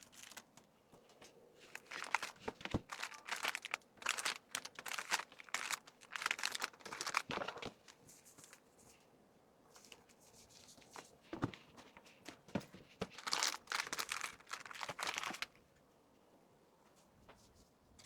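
Plastic packaging crinkling and rustling in irregular bursts as small items are handled and packed, with a few sharp clicks; it stops a couple of seconds before the end.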